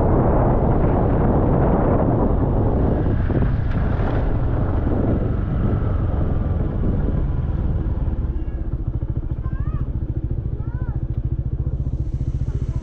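Motorcycle engine running, with wind rushing over the microphone at first. The wind noise fades about halfway through as the bike slows, and the engine keeps running steadily. A few short high chirps come near the end.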